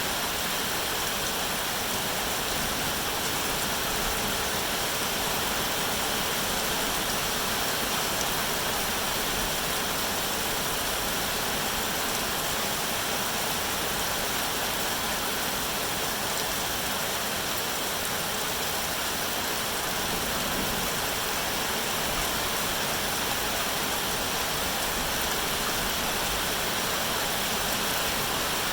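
Steady rain falling: an even, continuous hiss with no let-up.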